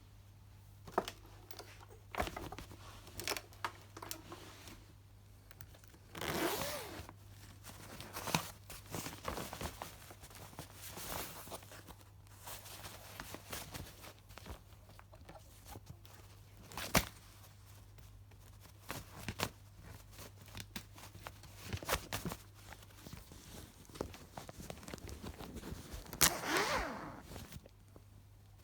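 Intermittent rustling, scraping and clicking handling sounds, some sharp and brief, over a faint steady low hum.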